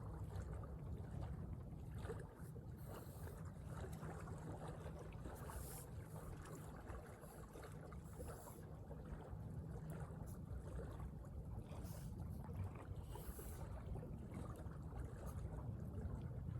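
Steady low outdoor rumble of wind on the microphone, with a faint hum now and then and brief scratchy rustles of handling.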